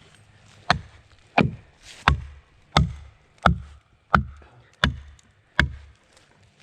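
A sledgehammer striking a felling wedge eight times in a steady rhythm, about three blows every two seconds. This is the wedge being driven into the felling cut to tip a beech.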